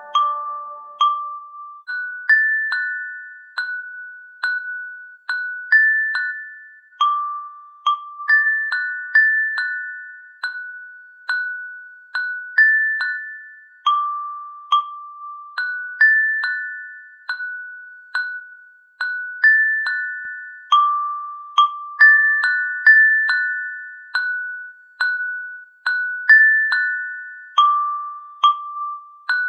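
A slow melody of single high, bell-like notes, each struck and left to ring out, about one note a second, with no rain noise beneath it.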